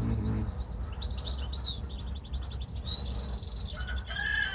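European goldfinch singing: a quick, twittering run of high notes with a buzzy trill in the middle. Near the end a rooster starts to crow.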